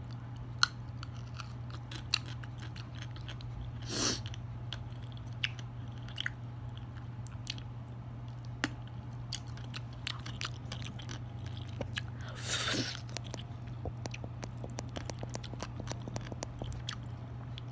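Close-up chewing and crunching with scattered sharp mouth clicks, beginning on a slice of yellow pickled radish. Two short rushes of noise about four seconds in and again past twelve seconds, over a steady low hum.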